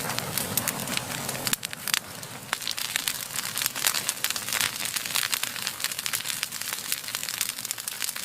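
Wood fire crackling, a dense run of sharp snaps and pops. A low rushing of flame underneath cuts out about one and a half seconds in, leaving the crackle alone.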